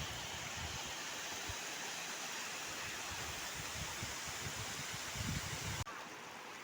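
Mountain stream water rushing steadily, with some low thumps underneath; the level drops a little, abruptly, near the end.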